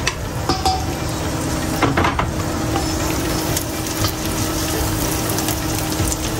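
Chopped ginger and garlic sizzling in hot oil in a stainless steel pot, stirred with a wooden spatula that scrapes and taps against the pot a few times.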